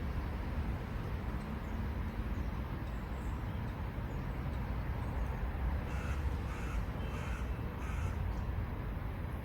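A bird calling about five times in quick succession, starting about six seconds in, over a steady low rumble in the background.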